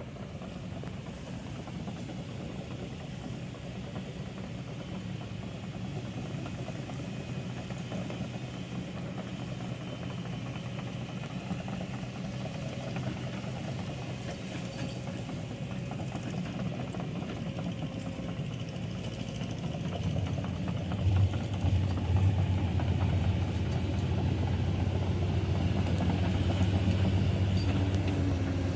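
Heavy diesel machinery engine running steadily. It grows louder and deeper about two-thirds of the way through.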